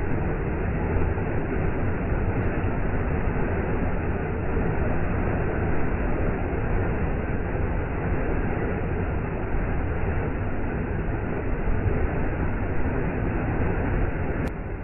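Waterfall: a steady rush of falling water with a deep rumble underneath, with a faint click just before the end.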